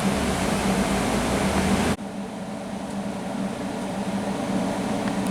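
Steady mechanical hum with a low droning tone, dropping abruptly to a quieter, similar hum about two seconds in.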